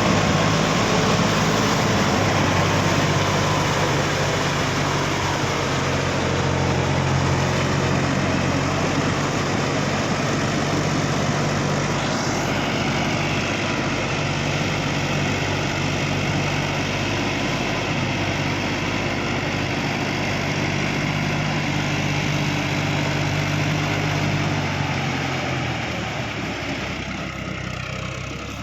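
New Holland 6010 tractor's diesel engine running steadily, getting quieter near the end.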